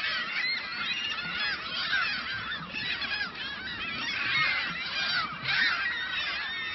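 A flock of birds calling all at once: a dense, unbroken chatter of many short, high, overlapping chirps.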